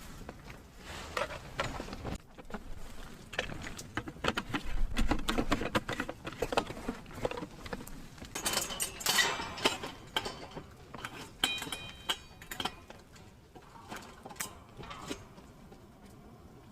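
Irregular small clicks, taps and rustles of things being handled, with a short metallic ring about twelve seconds in.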